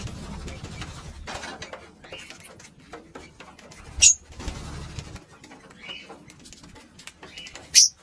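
Pet lovebirds giving two short, shrill chirps, about four seconds in and near the end, over steady light clicking and scratching and a low rumble that stops about five seconds in.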